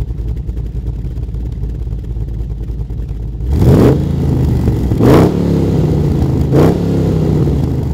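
Holden LS3 6.2-litre V8 with a VCM532 performance camshaft, heard through a twin 3-inch exhaust, running low and steady. About three and a half seconds in it rises in pitch under throttle, with three loud surges about a second and a half apart.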